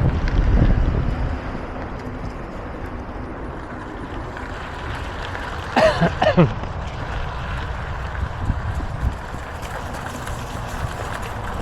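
Wind rushing over the microphone and tyre noise of a bicycle being ridden, with a stronger gust of low rumble in the first second. About six seconds in, a short squeal falls in pitch for under a second.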